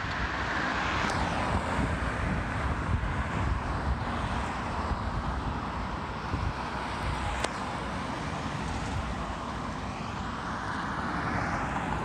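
Boeing 757 jet airliner engines heard at a distance, a steady rumble that swells a little at the start and again near the end, mixed with wind buffeting the microphone.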